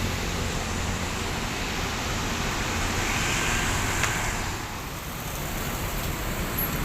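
Bus terminal ambience: a steady wash of vehicle engines and traffic, with a short click about four seconds in and a sharp knock at the very end.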